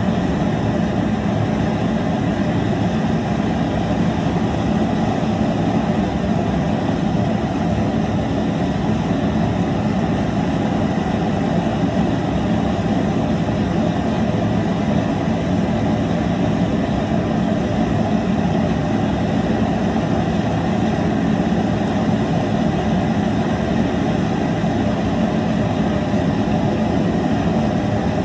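Propane burner under a crawfish boil pot, running with a steady rushing noise that does not change.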